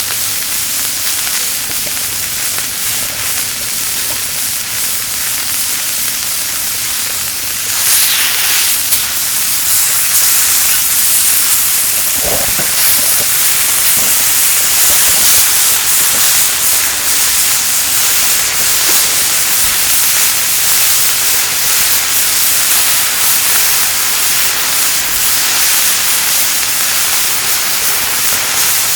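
Meat sizzling on a grill plate set on a kerosene heater, a steady hissing sizzle that gets louder about eight seconds in. There is a single short knock a few seconds later.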